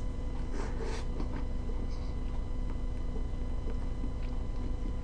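Mouth sounds of chewing a soft mouthful of pancake: a few faint wet smacks in the first second and a half, then quieter chewing. A steady electrical hum runs underneath.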